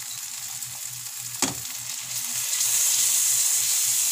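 Tuna steaks and garlic frying in butter in a nonstick pan, a steady sizzle. There is one sharp click about a second and a half in, and the sizzling gets louder just past halfway.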